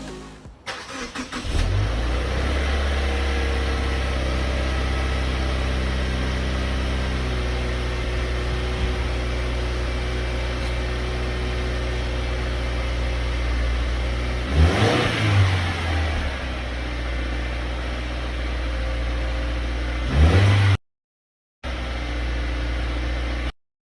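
2015 Subaru WRX's turbocharged flat-four engine idling steadily through a 3.5-inch muffler-delete exhaust. There is a quick rev blip about fifteen seconds in and a shorter one about twenty seconds in. The audio cuts out completely twice near the end.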